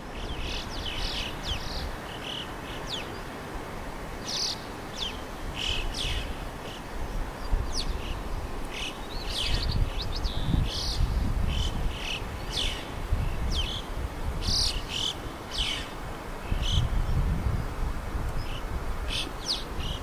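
Birds calling: scattered short, high chirps and quick falling call notes, over a low rumble.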